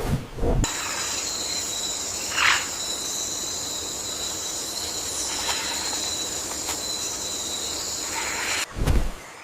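A steady, high-pitched insect drone of rainforest ambience that starts under a second in and cuts off suddenly near the end, with a short bird call about two and a half seconds in.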